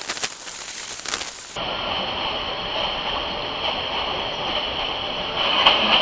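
Rushing hiss of a moving train with a few clicks. After an abrupt change about a second and a half in, the steady running noise inside a Burmese passenger carriage follows, with rattling and sharper knocks growing louder near the end.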